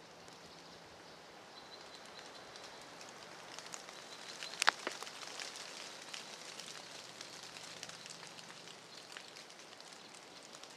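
Light rain pattering and dripping onto leaf litter in woodland, many small irregular ticks over a soft hiss, with one sharp click a little before halfway.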